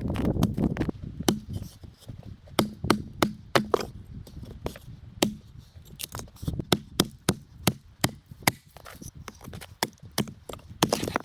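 A blade chopping against wood: a long run of short, sharp knocks at an uneven pace of about one to three a second.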